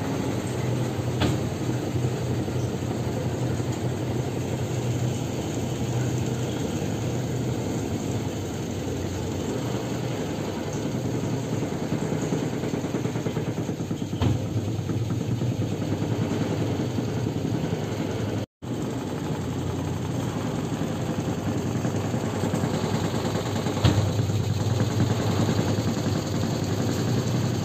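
Whirlpool washing machine running its wash cycle: a steady low motor hum with a few short knocks. The machine is working again after its control-board fault was repaired. The sound cuts out for an instant about two-thirds of the way through.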